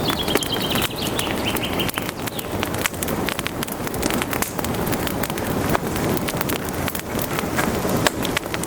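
Wood fire crackling in a fireplace, with a steady hiss and frequent irregular sharp pops and snaps. A thin high whistle, falling slightly in pitch, sounds during the first second or so.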